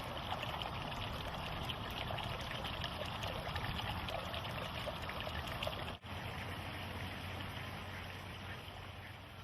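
Running water trickling and babbling steadily, like a small stream. There is a brief dropout about six seconds in, and the sound fades gradually near the end.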